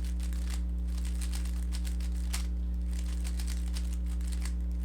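Rubik's cube layers being turned in quick runs of an algorithm, a rapid irregular clicking and rustling of the plastic pieces, over a steady low electrical hum.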